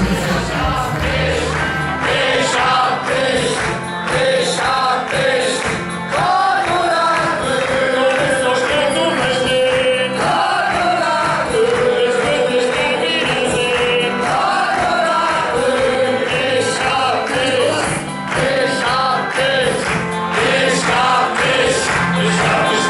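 A group of voices singing a carnival song together over live band accompaniment with a steady beat.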